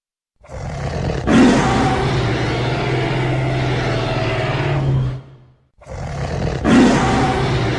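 Dinosaur roar sound effect: a long, loud roar of about five seconds over a steady low hum, loudest about a second in. It stops, and after a brief silence the same roar starts again.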